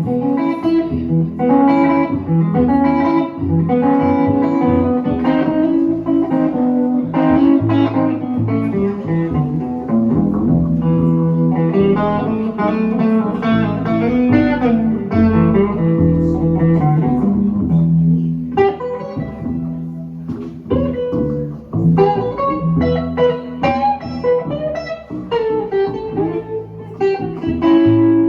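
Instrumental break of a folk-blues song: guitar picking and strumming over plucked upright bass, with no singing.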